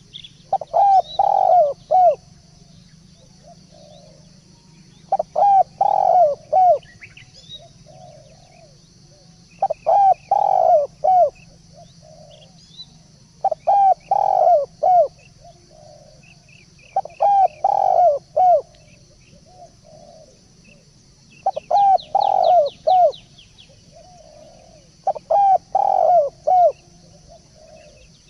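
Spotted dove (tekukur) cooing: a phrase of several low coos, repeated about every four seconds. Faint chirps of other small birds and a steady high hiss run underneath.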